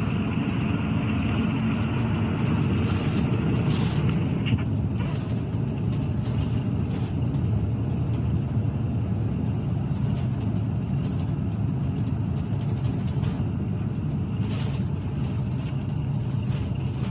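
Steady road and engine rumble inside a moving police car's cabin, with scattered faint clicks and rattles.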